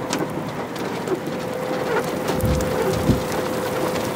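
Rain pattering on a car's roof and windshield, heard inside the vehicle, over a steady faint hum. A low rumble swells briefly about two and a half seconds in.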